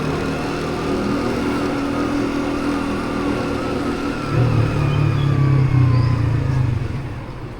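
Motorbike engine running at road speed under steady wind and road noise. A deeper, louder engine drone swells for a few seconds past the middle, then the sound fades away near the end.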